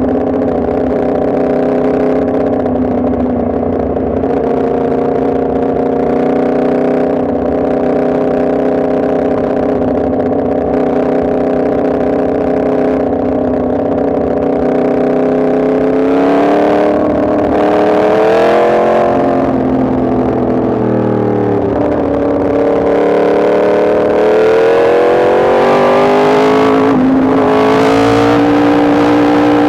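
Yamaha MT-10 SP's crossplane inline-four engine running under way: a steady engine note at first, then from about halfway the pitch rises and falls several times as the throttle and gears change.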